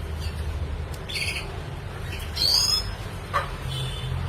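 Red siskin calling in short phrases: a brief buzzy chirp about a second in, then a clear high whistled note that rises and falls around two and a half seconds, with a sharp tick a little later, over a steady low hum.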